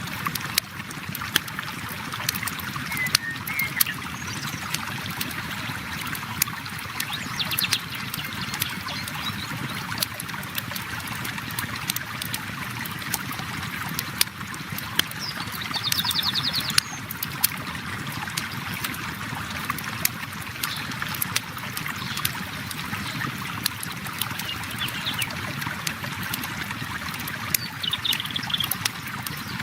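River water flowing steadily, mixed with a campfire crackling in frequent sharp pops and snaps.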